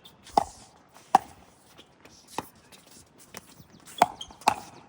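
Pickleball rally: paddles striking the plastic ball in sharp pops about a second apart, with a quicker pair of hits near the end.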